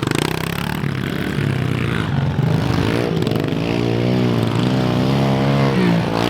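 Pit bike engine running, its pitch rising and falling with the throttle from about three seconds in.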